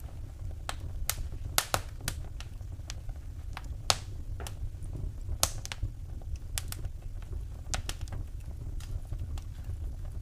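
Wood fire in a fireplace crackling: irregular sharp pops and snaps, the loudest about four seconds in, over a steady low rumble.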